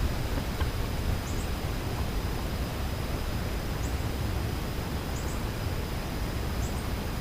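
Steady outdoor background noise, a rushing hiss, with a faint steady high tone and four brief, faint, high chirps from small birds spread through it.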